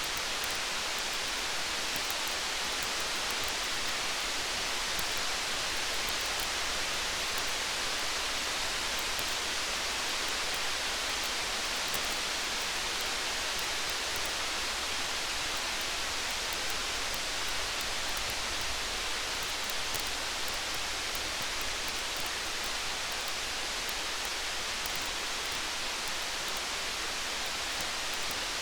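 Steady rain hiss with faint, scattered crackles of a campfire.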